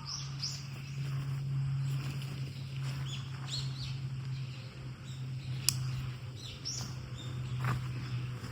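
Small birds chirping now and then over a steady low hum, with a sharp click a little past the middle and a fainter one near the end.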